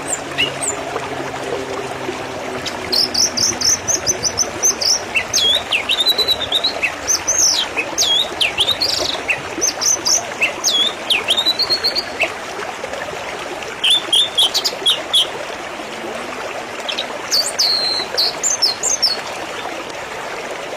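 Small birds chirping in quick runs of short, high, sliding notes, over a steady hiss of background noise.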